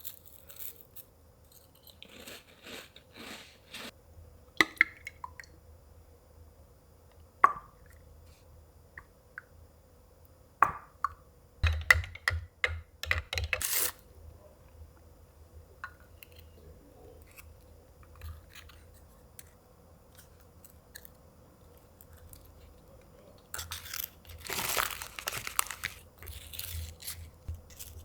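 Kitchen handling sounds: scattered sharp knocks and clicks, with a few short noisy stretches of rustling or scraping, over a faint steady hum.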